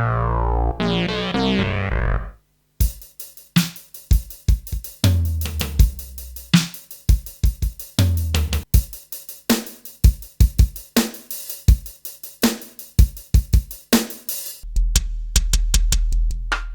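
Kurzweil K2500R synthesizer playing factory presets: a sustained keyboard tone with falling sweeps dies away about two seconds in. After a brief gap, a drum kit preset plays a pattern of kick, snare and hi-hat hits. Near the end, a heavier pattern with a sustained deep low end sets in.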